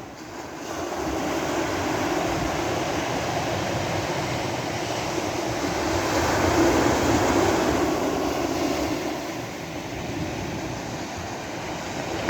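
Sea waves washing onto a shore: a steady rush of surf that builds to its loudest about six to eight seconds in, then eases.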